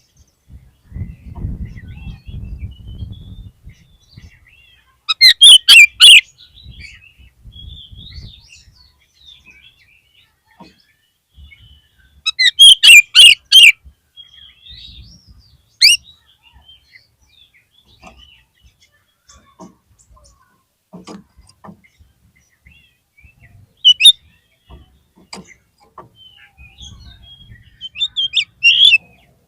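Oriental magpie-robin (kacer) calling, with loud bursts of rapid high notes about five times and softer short whistled notes between them. A low rumble sits under the bird near the start and again near the end.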